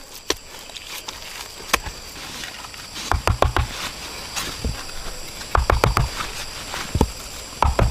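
Several short clusters of sharp knocks and clacks, like handling or striking wood, over a steady high insect chorus.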